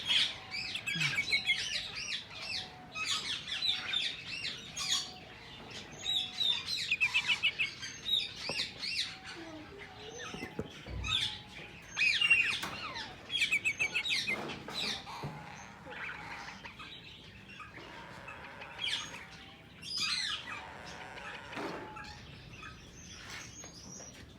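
Several ringneck parakeets chattering, with rapid trains of repeated high chirps, busiest in the first half.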